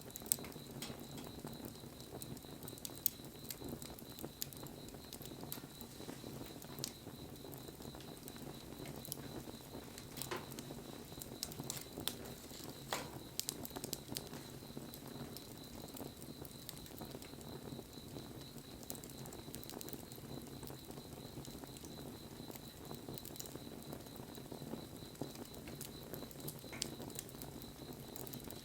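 Wood fire crackling, with a steady hiss and frequent sharp pops and snaps scattered irregularly throughout. A faint steady high tone runs underneath.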